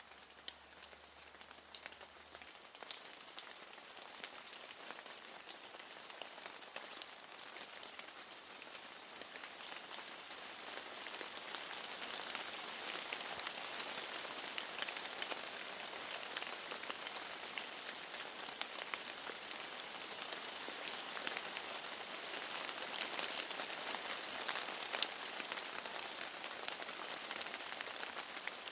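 Steady rain with a dense patter of individual drops tapping on a surface, swelling gradually over the first ten seconds or so and then holding steady.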